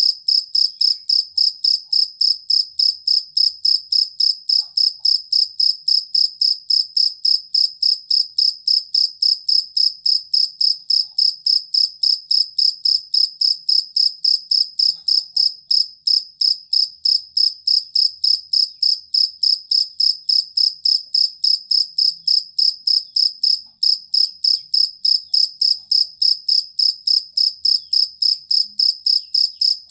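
A collared field cricket (jangkrik kalung) stridulating in a steady, even chirp, about four pulses a second, with a high clear tone.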